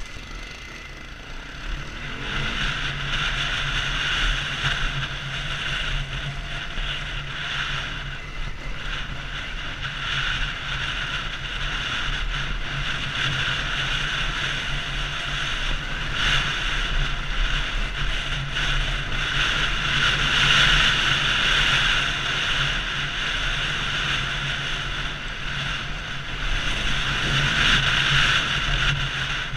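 Honda CRF250L single-cylinder engine running steadily while riding, under a strong rush of wind on the microphone. It gets louder about two seconds in.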